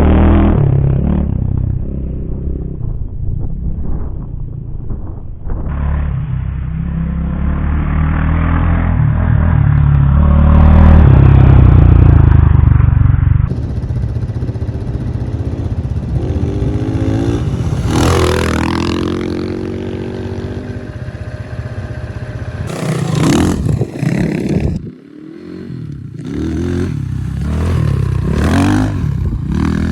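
X-Pro Templar 250cc dirt bike's single-cylinder four-stroke engine being ridden hard, its pitch rising and falling again and again as it revs up and changes gear, with rattling and clatter from the bike.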